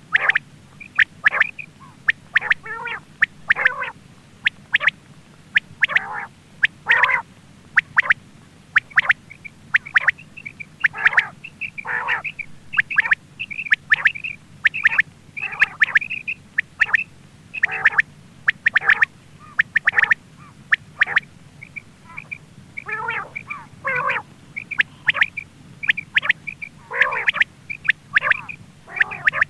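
Quail calling over and over in short, sharp notes, about one to two a second without a break, some notes dropping lower in pitch, over a steady low hum.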